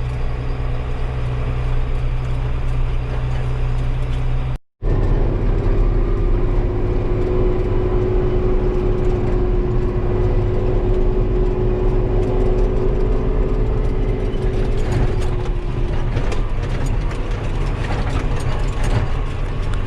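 Diesel engine of a heavy farm machine running steadily under way, with a steady gear whine over the drone. The sound drops out for a split second about five seconds in.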